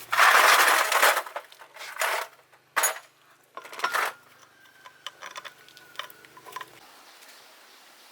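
Metal tools and machine parts clinking and clattering: a loud rattling burst of about a second at the start, then a few shorter clanks and light ticks.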